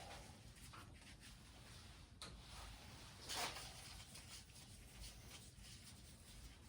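Near silence with faint rubbing and handling noises, and one brief scrape about three and a half seconds in.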